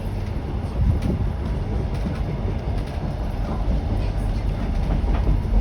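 Train carriage running along the track, heard from inside: a steady low rumble with faint wheel clatter.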